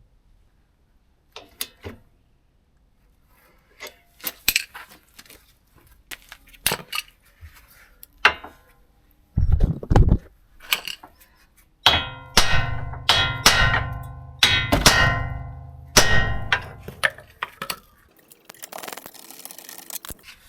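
Steel tools and parts clanking in a car's suspension work: scattered clicks, then a run of loud ringing metal hits in the second half, with a brief hiss near the end.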